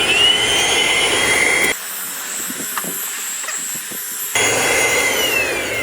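Ingco 11.1 V cordless handheld vacuum cleaner's motor running with a high whine, interrupted for about two and a half seconds by a quieter stretch with a few light clicks. Near the end the whine falls in pitch as the motor spins down.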